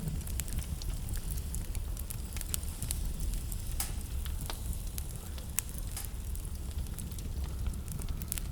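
Wood fire in a fireplace crackling, with frequent sharp pops and snaps scattered throughout, over a steady low rumble.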